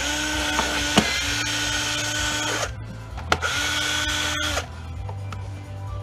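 Cordless drill or power screwdriver running in two bursts: a steady whine for about two and a half seconds, a short pause with a click, then about another second, as screws are driven out of the jump starter's plastic case.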